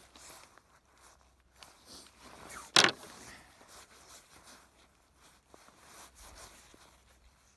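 Quiet rustling and handling of fire-lighting materials, with one loud, short scraping sound about three seconds in.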